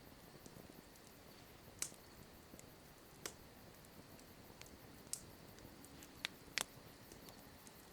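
Campfire crackling softly: a handful of isolated sharp pops over a faint hiss, two of them close together near the end.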